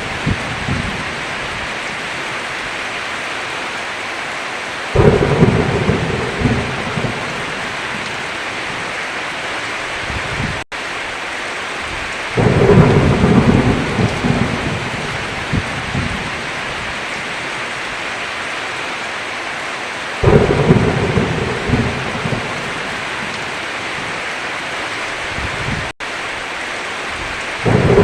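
Steady heavy rain with rolling thunder: a rumble breaks in sharply three times, about every seven to eight seconds, each fading over a few seconds, and a fourth starts near the end. The sound cuts out for an instant twice.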